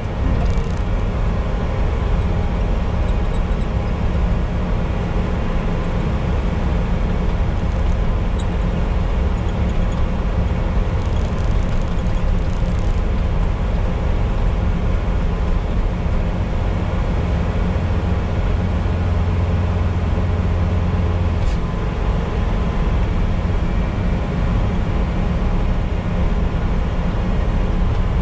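Bobcat T595 compact track loader's diesel engine running steadily while it powers an SB200 snowblower attachment. A low hum grows stronger for a few seconds past the middle, then drops back.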